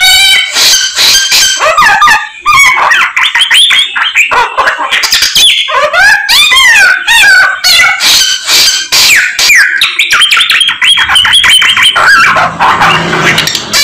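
Samyong songbird singing loudly and without pause, a rapid, varied stream of whistles, rising and falling glides and fast trills: the bird in full song, packed with learned phrases (isian).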